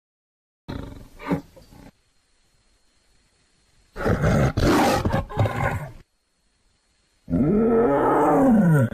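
A big cat roaring: three separate roars, each one to two seconds long, with short silences between them. The last roar rises and then falls in pitch.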